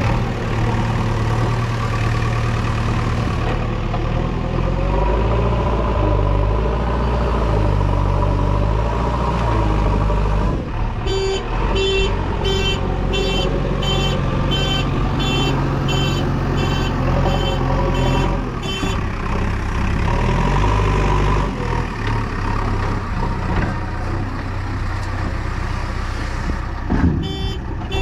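Heavy diesel machinery running steadily, a JCB 3DX backhoe loader at work loading trucks. From about eleven seconds in, a reversing alarm beeps about twice a second for some eight seconds, then stops.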